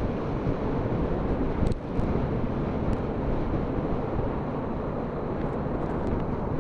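Steady wind rush on the microphone of a moving motorcycle, with engine and road noise underneath as the bike rides at speed.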